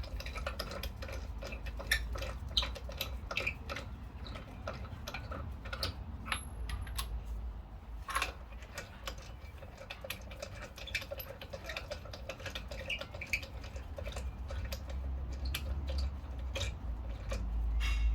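A stream of small, irregular clicks and light metallic taps from hand tools working on a car wheel, with a steady low rumble underneath.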